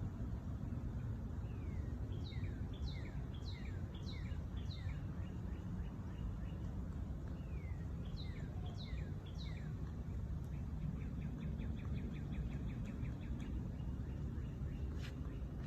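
Wild birds calling: series of short downward-slurred chirps, then a fast, even trill of rapid notes midway, over a steady low background rumble. Two sharp clicks near the end.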